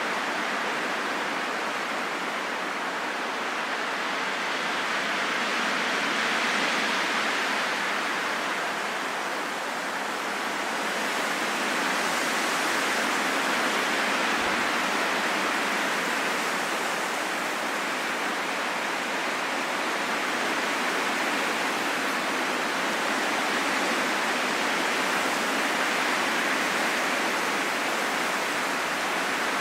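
Steady rushing wind that swells and eases slowly every several seconds.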